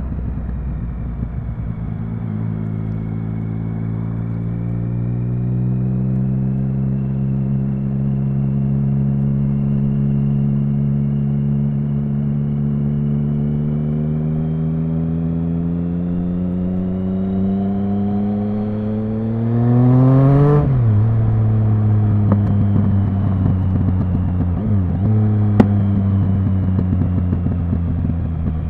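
Triumph Speed Triple 1050's inline three-cylinder engine under way, its pitch creeping up slowly as the bike gathers speed, then revving hard to a peak about twenty seconds in before dropping suddenly. Afterwards it settles back to a low, steady running note with a couple of brief dips and a single sharp click near the end.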